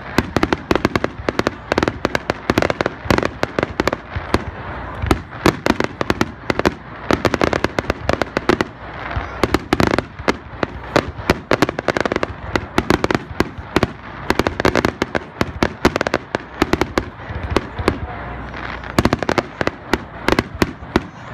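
Barrage of aerial firework shells launching and bursting in a dense string of sharp bangs, several a second.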